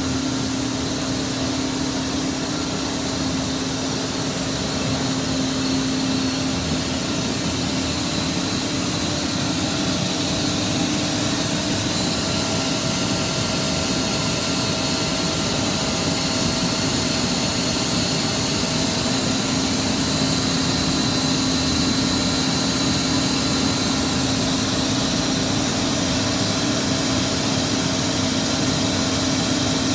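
Boiler firing under test: its burner and blower running steadily, a continuous rushing noise with a steady hum, slowly getting a little louder.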